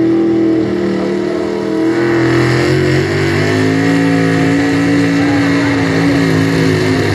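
Pulling truck's engine running at high revs under heavy load down the pull track, its pitch sagging slightly about three seconds in and then holding steady before dropping off at the very end.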